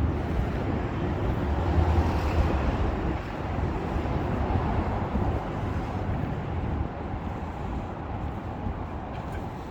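Road traffic on a city street: a steady rumble of engines and tyres that swells about two seconds in and then slowly fades.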